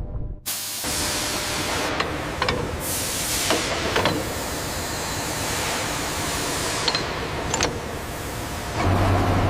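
A steady hiss that starts suddenly, with a handful of sharp clicks or knocks scattered through it. A low steady hum comes in near the end.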